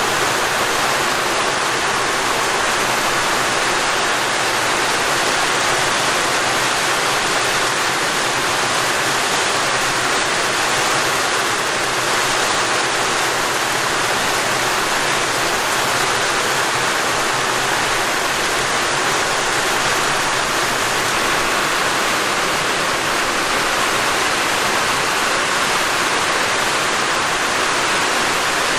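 Heavy rain pouring down on a corrugated metal roof and the ground around it: a loud, dense, steady hiss, made louder by the metal roof.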